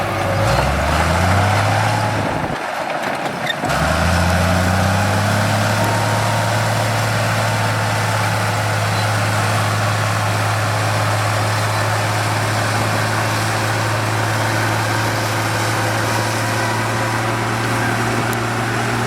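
Heavy diesel engine of a construction machine speeding up, dropping out briefly about three seconds in, then speeding up again and running steadily.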